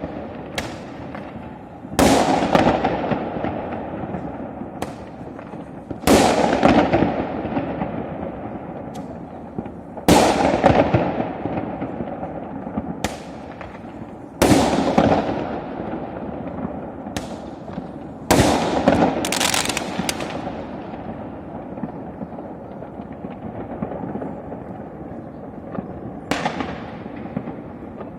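Fireworks bursting overhead: loud bangs about every four seconds, each followed by a long fading rumble, with smaller pops between them and a quieter last burst near the end.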